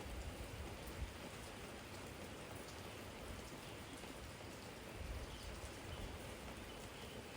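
Steady spring rain falling on a garden jar and the yard around it, drops striking all over, with a couple of heavier low knocks about a second in and again about five seconds in.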